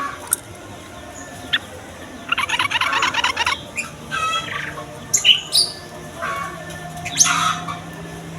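Yellow-vented bulbuls (trucukan) calling. A rapid chattering phrase comes about two seconds in, followed by a run of short, bubbly whistled notes. A faint low steady hum sits underneath from about halfway.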